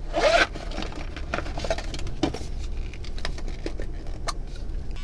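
Clothes rustling and light scattered clicks and knocks as a person changes out of pajamas and dresses, with a louder rustle right at the start.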